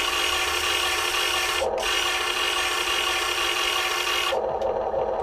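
Huina 1580 RC excavator's electric motors and metal gears whirring and grinding as it works its arm. The whir dips briefly about a second and a half in and again near the end, as the movements stop and start.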